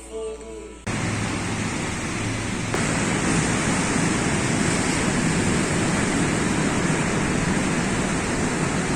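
Ocean surf rushing steadily. It starts abruptly about a second in, as music cuts off, and grows a little louder a couple of seconds later.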